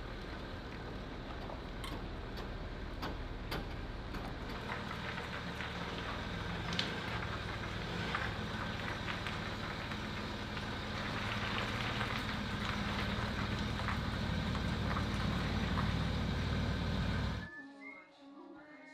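A vehicle engine idling, a steady low rumble with a few light clicks early on, swelling a little before it cuts off abruptly near the end.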